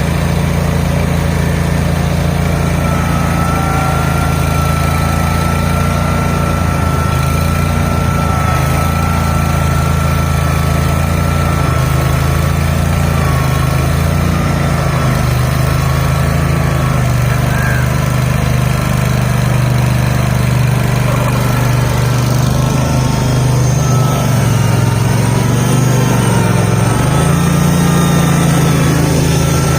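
Small garden tractor engines running steadily under load as a John Deere and a Cub Cadet garden tractor, hitched together, pull against each other. The engine note dips and rises briefly past the two-thirds mark.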